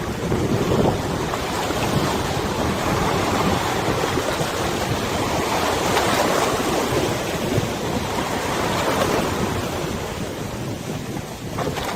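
Waves on the Meghna River washing, with wind buffeting the microphone: a steady rushing noise that swells and eases, dipping a little near the end.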